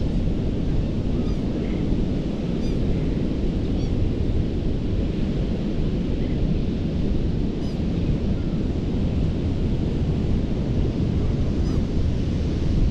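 Gulf of Mexico surf washing steadily onto a sandy beach, mixed with wind rumbling on the microphone. A few faint, short high chirps come through now and then.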